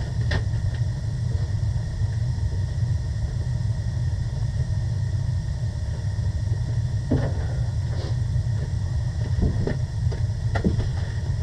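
Gas-fired boiler running with its burners lit, a steady low rumble, with a few light knocks near the end.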